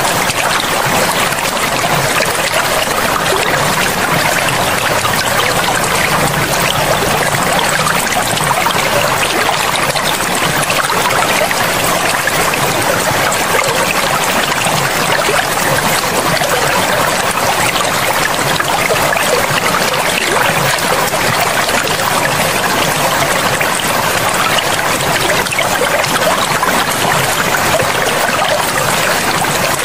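Forest river water flowing in a steady, unbroken rush.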